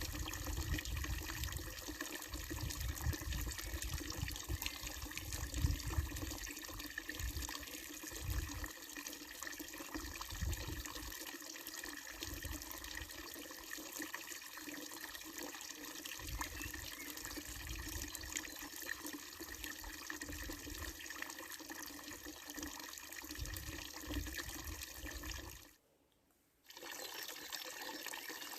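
Water pouring steadily from a wooden trough-spout fountain and splashing into its basin. There is some low rumbling in roughly the first ten seconds, and the sound drops out for about a second near the end.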